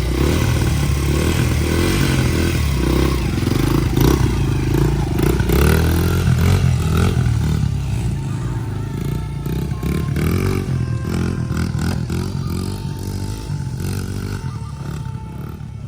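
Dirt bike engine running and revving up and down, with some clatter. It grows quieter in the second half.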